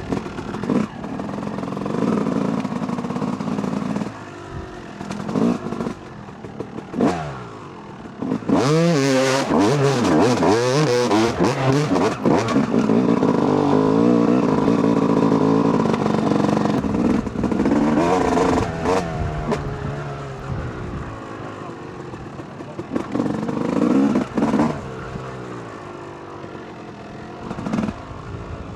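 2008 Yamaha YZ250 two-stroke dirt bike engine revving up and down as it is ridden. The throttle is hardest and loudest through the middle stretch, and it eases off to a lower, steadier run toward the end.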